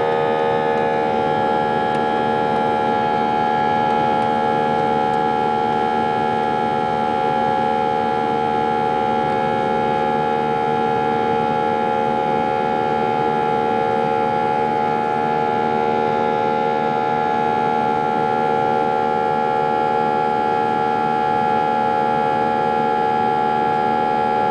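Airbus A320 jet engines heard inside the cabin under climb power: a steady whine of several tones over a rushing noise. The pitch shifts slightly in the first second, then holds steady.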